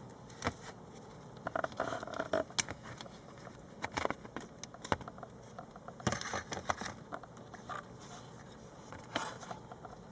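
Irregular clicks and short rustles of handling noise, with quiet stretches between them.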